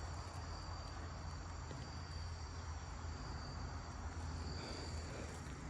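Insects trilling steadily, several high pitches held without a break, over a low steady rumble.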